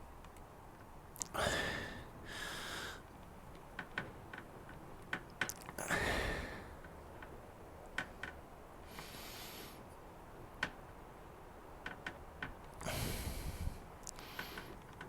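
A man's breathing: several sharp exhales through the nose, with scattered light clicks and taps from working the new fuel pipe into the fuel tank's rubber grommet.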